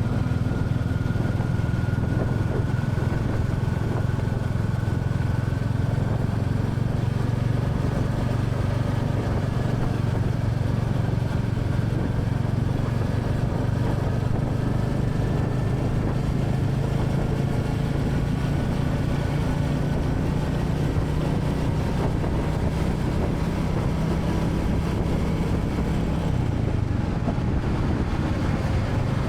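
Royal Enfield Classic 350's single-cylinder engine running steadily on the move, with little change in revs.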